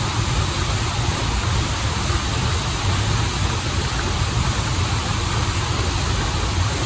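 Running water of a stream and waterfall, rushing steadily with a deep low rumble under a broad hiss.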